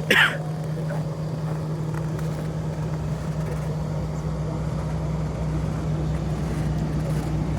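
1995 Lincoln Town Car's 4.6-litre V8 with dual exhaust idling steadily, warming up after a very cold start. A short burst of noise comes right at the start.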